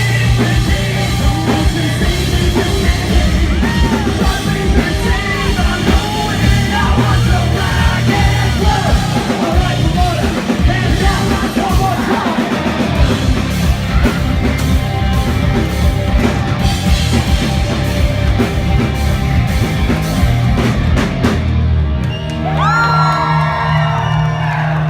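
Live rock band playing loud with drums and yelled vocals. The song stops about 21 seconds in, and crowd whoops and yells come over a held low note.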